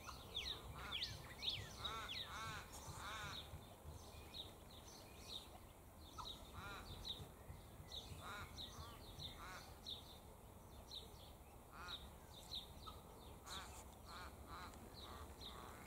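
Wild birds calling faintly: many quick high chirps throughout, with short runs of lower, harsher calls every few seconds.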